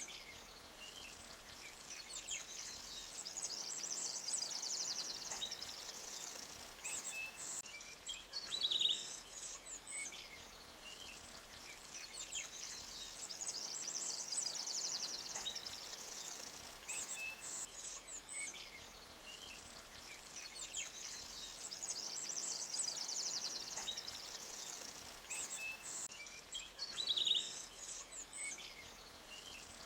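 Forest ambience of small birds chirping, with a buzzy trill that recurs about every nine seconds as a loop, over the faint steady hiss of a stream. A short, sharper high call stands out twice.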